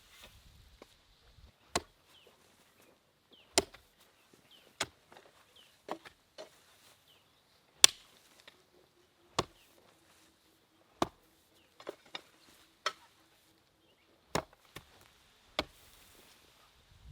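Sharp chopping strikes, about a dozen, coming roughly once a second at an uneven pace, like a blade biting into wood or a cutting board.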